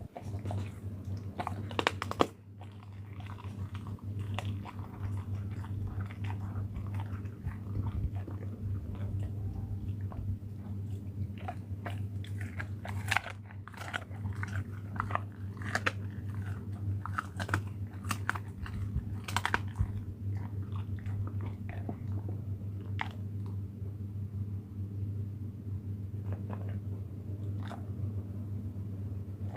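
An animal chewing and crunching on food, with irregular crunches and bites throughout, over a steady low hum.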